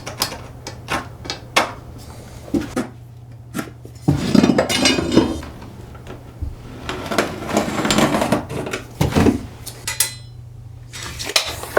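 Clinking and knocking of metal hand tools being handled during measuring and marking, with a couple of longer scraping or rubbing stretches.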